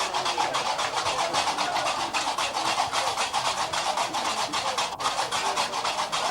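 Gnawa music driven by qraqeb (iron castanets) clacking in a fast, even rhythm.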